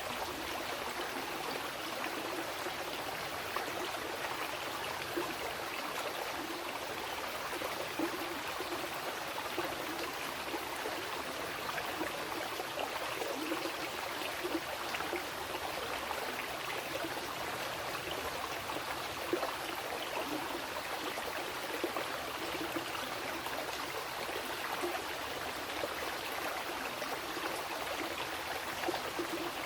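Mountain river flowing over rocks: a steady rushing of water with small splashes and gurgles throughout.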